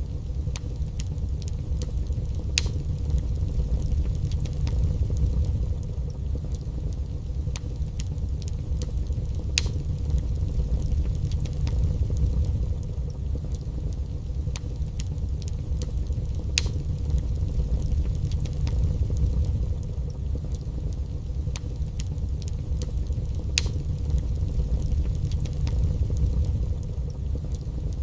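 Wood fire burning in a fireplace: a steady low rumble of flames with scattered crackles and sharper pops, a louder pop about every seven seconds.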